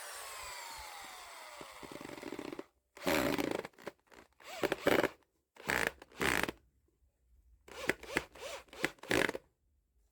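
Electric woodworking power tool running, then winding down with a falling whine. After that come four short, rough bursts of cutting or scraping, the longest near the end.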